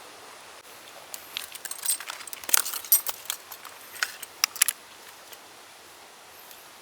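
Small metal objects clinking and jangling as they are handled: a flurry of light, sharp clinks over a few seconds, busiest near the middle, over a steady outdoor hiss.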